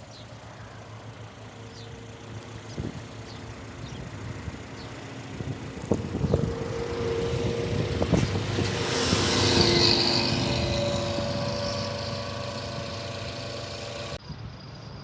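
A motor vehicle passing: its engine sound grows louder to a peak about ten seconds in, then fades, with a couple of knocks along the way. The sound changes abruptly near the end.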